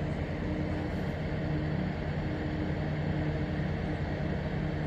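Steady low mechanical drone holding a few low hum tones over a continuous rumble, typical of large diesel engines or heavy machinery running at the lock.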